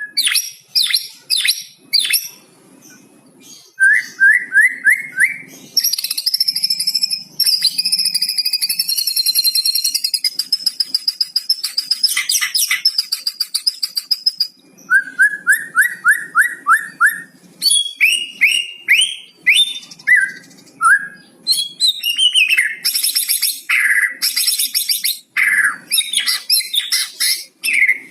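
White-rumped shama (murai batu) singing a varied song of whistles and trills, filled in with mimicked cucak cungkok phrases. A run of quick repeated notes comes about four seconds in and again at about fifteen seconds, with a long high sustained stretch between them.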